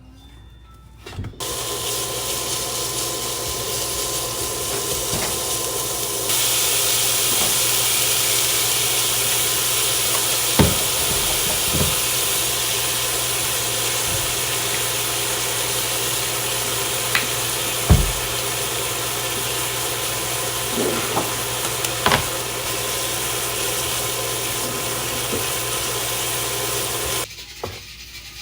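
Steady mechanical hiss with a low hum under it and a few faint clicks; it starts abruptly, gets louder about six seconds in, and cuts off abruptly near the end.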